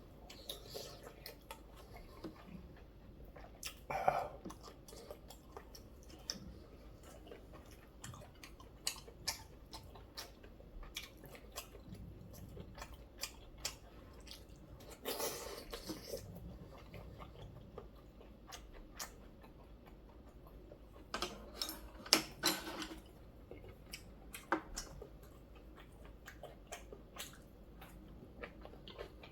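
Close-miked eating: a person chewing a meal of noodle soup and kimchi, with many small wet mouth clicks and a few louder bursts of eating noise about 4, 15 and 22 seconds in.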